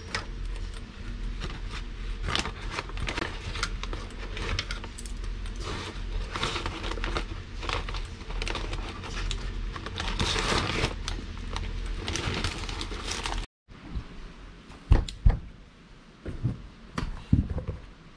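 Crinkling and rustling handling noise with many small clicks. After an abrupt cut about 13 seconds in come a few sharp knocks.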